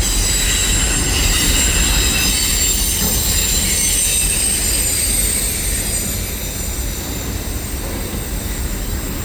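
Freight train's auto rack cars rolling through a tight curve, steel wheels squealing in several steady high tones over a continuous low rumble.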